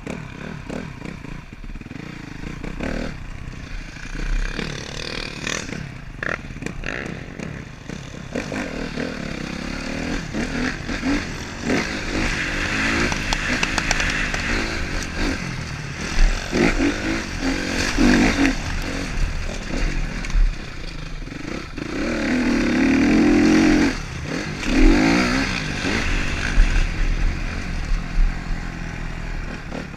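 Motocross bike engines revving and passing, pitch rising and falling with the throttle, getting louder over the second half.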